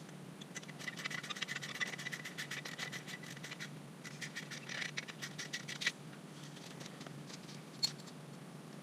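Rapid run of light clicks and scraping from hand-tool work on a motorcycle's drive chain adjustment, stopping about six seconds in, with one more click near the end.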